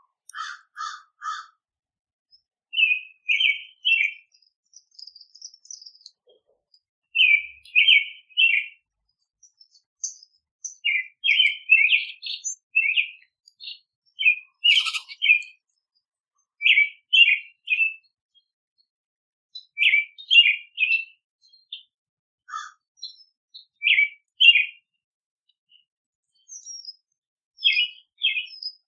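Songbirds chirping: short calls in clusters of two or three, repeated every couple of seconds, with a few thin, higher notes in between.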